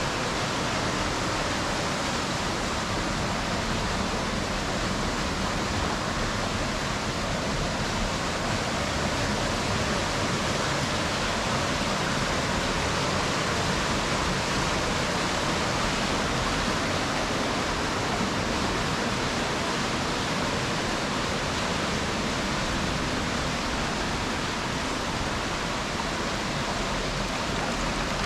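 Rushing river water, a steady, even roar with no breaks.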